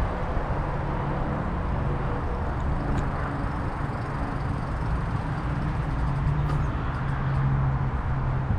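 Wind rushing over the microphone and road noise while riding an e-bike, with a steady low hum that grows a little stronger in the second half.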